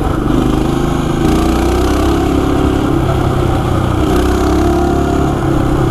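Coleman CT200U-EX mini bike's small single-cylinder four-stroke engine running steadily while the bike is ridden along a dirt road, its note stepping up slightly about a second in.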